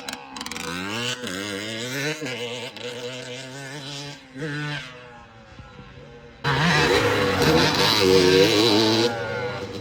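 Dirt bike engines on a motocross track, revving up and down in pitch as they are ridden; they fade for a moment, then one comes in much louder from about six and a half seconds and drops away near the end.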